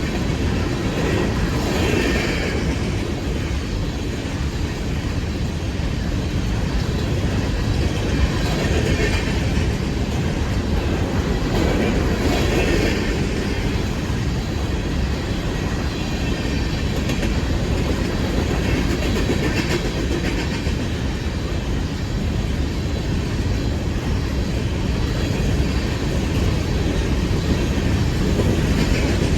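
Loaded coal cars of a long freight train rolling past: a steady, loud rumble of wheels on rail, swelling and easing every few seconds.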